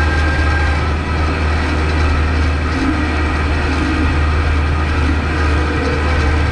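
Kubota MX5200 tractor's four-cylinder diesel engine running steadily, a continuous low drone.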